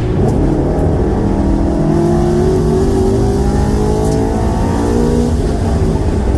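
Car engine under hard acceleration on a racetrack, its pitch climbing steadily for about three seconds before it drops away.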